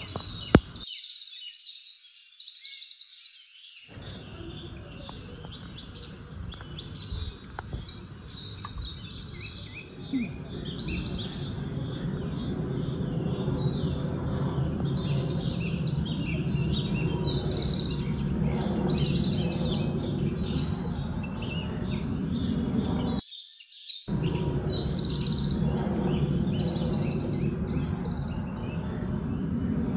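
Several small birds chirping and singing, with many quick repeated calls. A low rumbling noise sits underneath and grows louder about ten seconds in.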